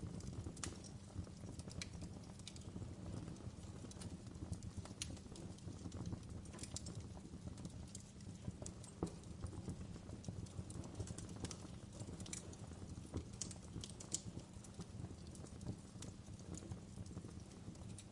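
Wood fire burning: a low steady rumble with irregular crackles and sharp pops from the burning wood.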